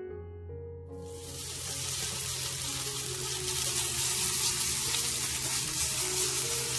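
Julienned carrot batter sizzling in hot oil in a nonstick frying pan. The sizzle starts suddenly about a second in as the carrots go into the pan and grows louder as they are spread out. Soft piano music plays underneath.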